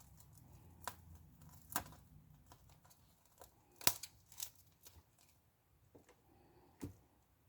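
Scattered faint clicks and crackles of a cracked iPad touchscreen being pried and peeled off its adhesive, a few sharper snaps among them.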